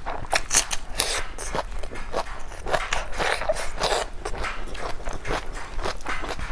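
Close-miked chewing of a mouthful of rice and raw red onion: irregular wet crunches and mouth clicks.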